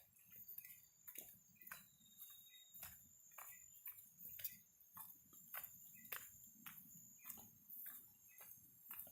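Footsteps on a forest trail, about two steps a second, quiet and even. A thin, steady, high insect drone runs underneath.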